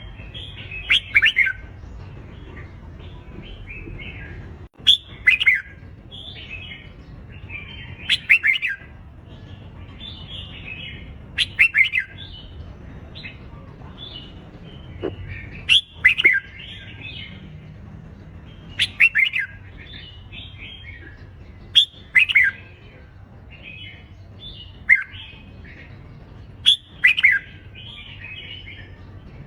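Red-whiskered bulbuls singing their loud competitive fighting song: short, bright, warbled phrases repeated about every three seconds, with softer chattering notes between them.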